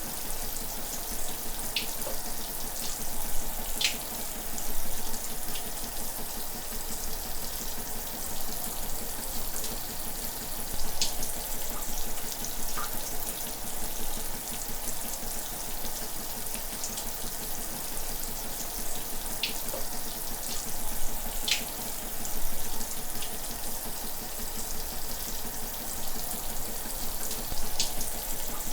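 Shower running: a steady hiss of falling water, with now and then a sharper splash or drop standing out.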